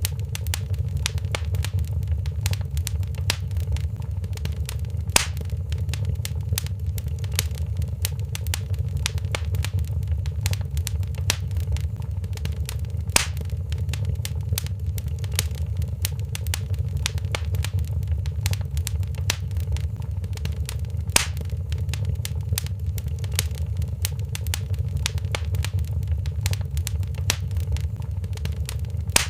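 Wood fire crackling in a fireplace: a steady low rumble of flame with constant small crackles and a louder pop about every eight seconds.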